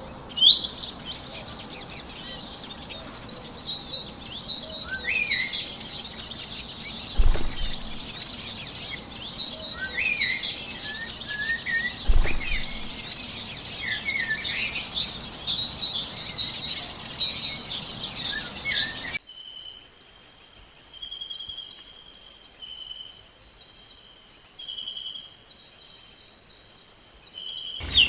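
Several birds chirping and calling, with many quick overlapping high notes and short sliding calls, broken by two dull low thumps. About nineteen seconds in the sound cuts abruptly to a steady high-pitched trill with short repeated notes beneath it, and it cuts again at the very end.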